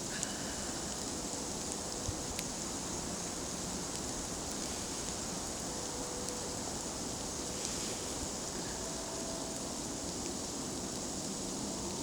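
Campfire of birch bark and branches burning with a steady hiss and a few sharp crackles scattered through it.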